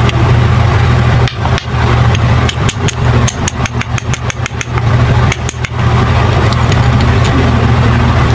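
A spark plug's ground electrode being tapped in quick light taps, several a second, to close a gap that has gone too wide, back toward 1.1 mm. The taps start about a second in and stop a little before six seconds, over a steady low drone.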